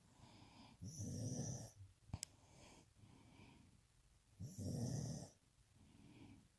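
Sleeping puppy snoring: two louder snoring breaths about three and a half seconds apart, each with a softer breath in between. A single short, sharp click comes about two seconds in.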